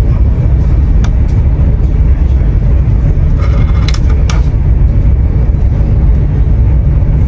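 Steady, loud low rumble of a high-speed train running at cruising speed, heard inside the passenger car. A few small clicks about a second in and again near the middle, as a hand handles things on the window sill.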